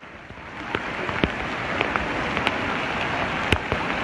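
Heavy rain falling: a steady hiss that builds up over the first second, with scattered sharp drop impacts.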